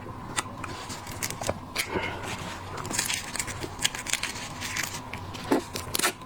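Close-up crackling and clicking of shellfish shells being cracked, peeled and bitten, in a rapid irregular run of sharp snaps that thickens about three seconds in.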